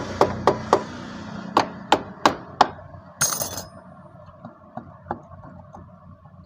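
A tool tapping the magneto-side engine cover of a Bajaj RS200 to break it loose: about eight sharp knocks in under three seconds, then a short hiss and a few lighter ticks.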